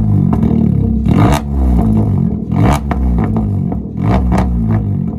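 Car engine revved repeatedly, its pitch rising and falling with each blip of the throttle, with sharp exhaust pops cracking out several times.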